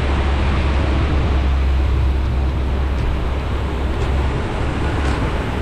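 Heavy rain hissing steadily, with a strong low rumble underneath that eases off near the end.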